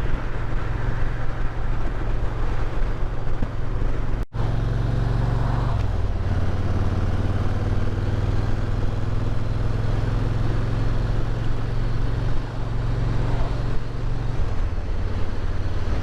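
Motorcycle engine running at a steady cruise with road and wind rush, heard from the rider's seat. The sound cuts out for an instant about four seconds in.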